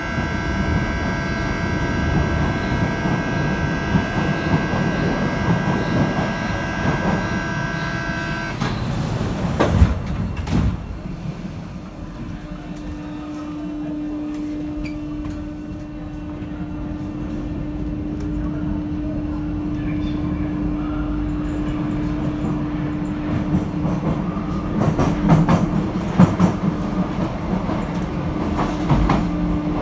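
Paris métro line 7 train running, heard from inside the carriage: a steady high electric whine that cuts off about eight seconds in, a couple of sharp knocks about ten seconds in, then a steady low hum over the running rumble.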